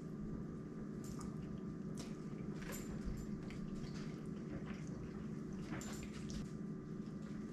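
Faint wet mouth sounds of a person biting and chewing a soft-bread sandwich: scattered small smacks and clicks over a steady low hum.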